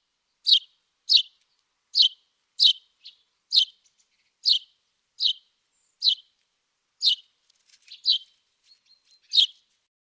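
A small songbird chirping over and over: about a dozen short, high, identical chirps, roughly one every second or a little faster, spacing out slightly near the end.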